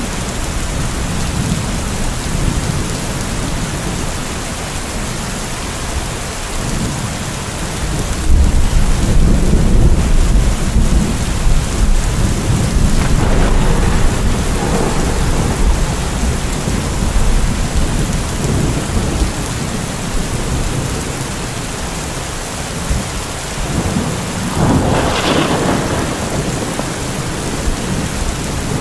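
Steady heavy rain with rolling thunder: a long deep rumble builds about 8 seconds in and lasts several seconds, and a sharper, brighter thunder swell comes about 25 seconds in.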